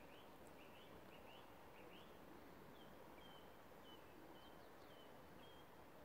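Faint birdsong over a steady background hiss: a bird gives short rising chirps for about two seconds, then a run of short, even whistled notes.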